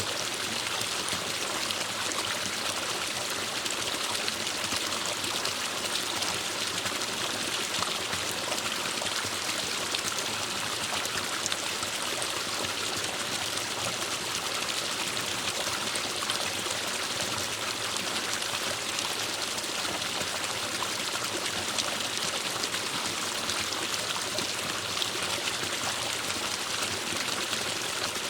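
Forest stream running steadily, an even rushing and trickling of water over rocks.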